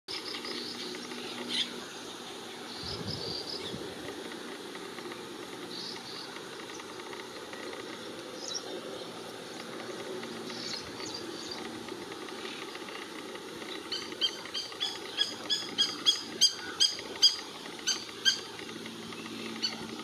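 Wild bird calls at a shallow wetland pool. A few scattered high chirps come first. Past the middle, a bird gives a run of sharp, high, evenly repeated calls, about three a second for some four seconds, which are the loudest sounds here. A faint steady low hum lies beneath.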